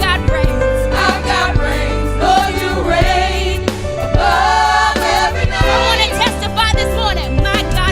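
Gospel worship song: voices singing with vibrato over held chords and a steady bass.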